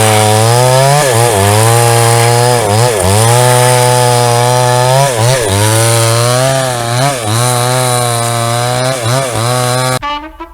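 JCK two-stroke chainsaw with a 22-inch bar, running at full throttle while ripping a wooden plank. The engine pitch sags and recovers every couple of seconds as it works through the cut. It cuts off abruptly about ten seconds in, where music begins.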